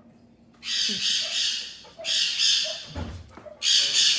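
Pet parrot squawking loudly: three harsh screeches about a second apart, the last running on past the end.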